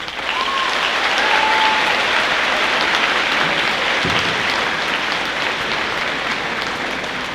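Audience applauding after a stage performance, loudest in the first couple of seconds and then slowly tapering off.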